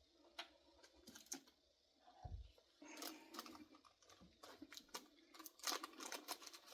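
Faint, scattered clicks and light rustling of small things being handled on a workbench, with one soft low thump a little over two seconds in and a busier run of clicks near the end.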